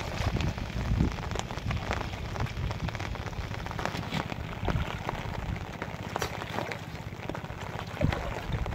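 Heavy rain falling steadily on shallow floodwater, with many scattered sharper taps and splashes over the even hiss.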